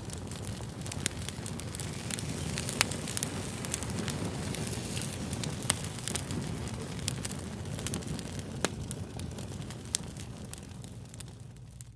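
Fire crackling: a steady low rumble with many small snaps and a few sharper, louder pops scattered through it.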